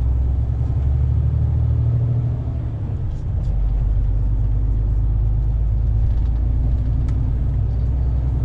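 Truck engine and road noise heard inside the cab while driving: a steady low drone that eases off slightly about three seconds in.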